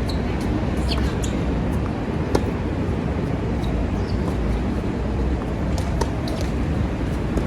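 Strong wind buffeting the microphone as a steady low rumble, with a sharp tennis ball strike about two seconds in and a few fainter ticks and squeaks from play on the court.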